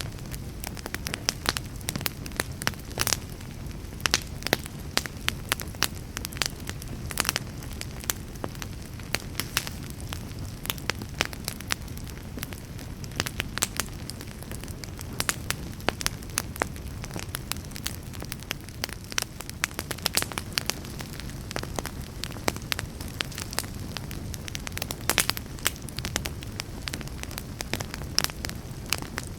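Wood fire burning in a fireplace, with a steady low rumble of the flames and frequent sharp, irregular crackles and pops.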